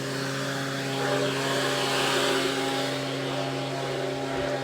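A steady engine hum, with a rushing noise that swells and fades about two seconds in.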